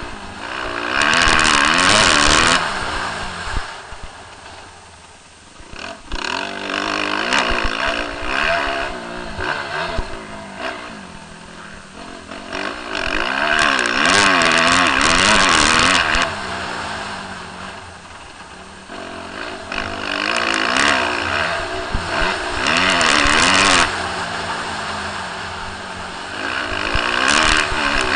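Motocross bike engines revving hard, their pitch climbing and dropping through throttle changes and gear shifts, with several loud surges as the bikes come near.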